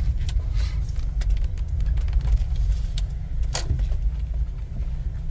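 Steady low rumble of city street traffic, with a few faint clicks over it.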